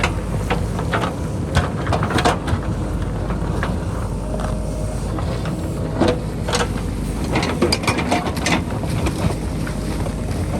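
JCB backhoe loader's diesel engine running steadily under load, with repeated sharp knocks and clatter of rock and dirt as it digs out the hillside.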